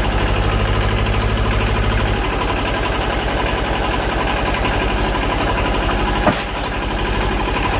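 Tractor engine running steadily, with a heavier low tone for the first two seconds. A sharp knock comes about six seconds in, after which the engine note is a little lighter.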